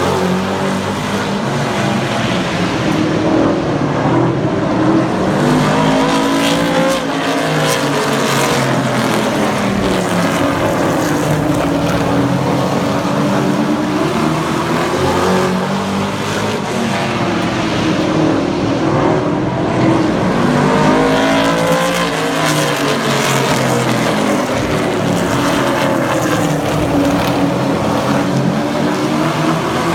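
A field of super truck race trucks running flat out around a short oval track, the engine pitch rising and falling in long sweeps that repeat about every thirteen seconds as the trucks lap past.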